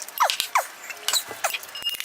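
An eating utensil scraping against a large bowl of fried rice, making about four short squeaks that each fall in pitch, with light clicks between them.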